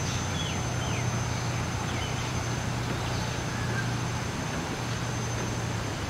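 A few short, falling bird chirps in the first second or two, over a steady low hum and a constant wash of noise, with a thin steady high whine throughout.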